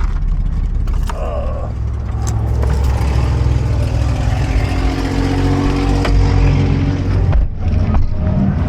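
Car driving, with a steady engine and road rumble heard inside the cabin. About three seconds in, the engine note rises as the car speeds up.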